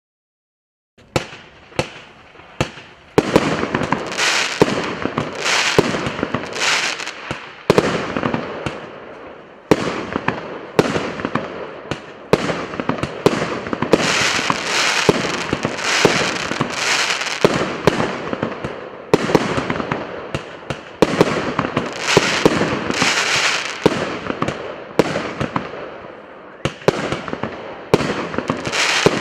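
A 99-shot consumer fireworks battery (cake) firing, starting about a second in and then going off shot after shot, several a second: sharp bangs over a continuous noisy wash of bursts.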